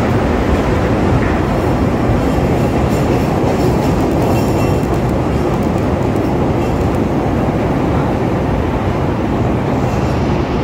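Chicago 'L' rapid-transit train running on the track beside the platform: a steady, loud noise of wheels on rail.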